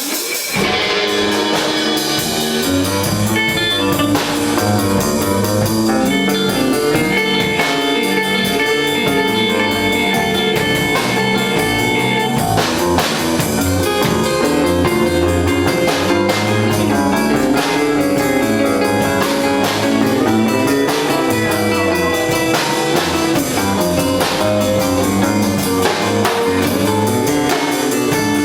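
Live rock band playing in a garage: guitar and drum kit with a steady beat.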